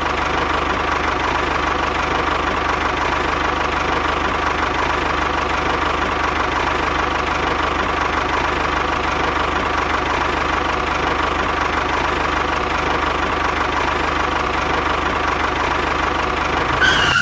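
Mini tractor running steadily: an even, unchanging engine drone with a faint high tone over it.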